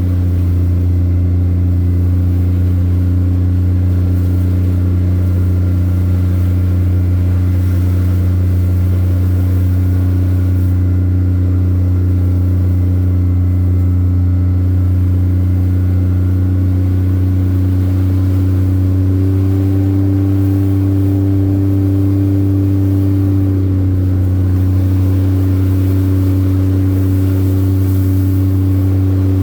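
An engine running at a steady speed: a low, even drone that wavers slightly in pitch about two-thirds of the way through.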